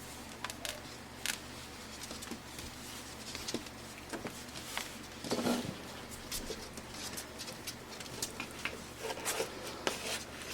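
Five-week-old Pembroke Welsh Corgi puppies scuffling about and playing with toys: scattered small clicks and scrapes, with a louder rustle about five seconds in and quicker clicks near the end.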